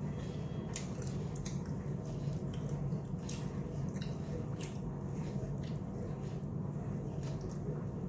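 Close-up wet chewing and lip-smacking of someone eating sticky, sauce-coated fried chicken lollipops: irregular small clicks and smacks over a steady low hum.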